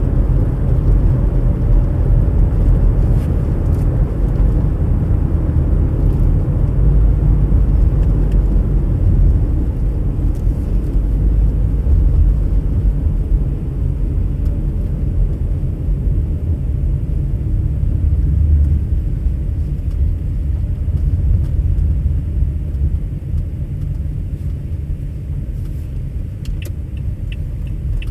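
Car driving: a steady, low rumble of engine and road noise, easing slightly in the second half, with a short run of light ticks near the end.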